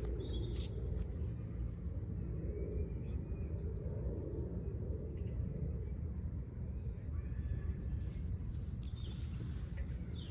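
Birds chirping a few times, a cluster of high chirps about halfway through, over a steady low rumble of background ambience.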